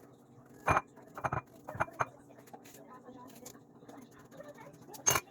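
Scattered knocks and clatter of kitchen utensils and cookware, about five separate hits over a few seconds with the loudest near the end, over a faint steady low hum.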